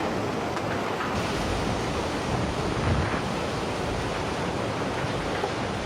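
Steady rushing of fast-flowing floodwater, an even noise with no clear breaks.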